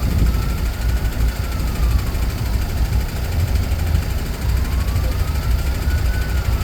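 Heavy trucks' diesel engines rumbling as they roll past in a parade, with a siren wailing slowly up and down twice over them.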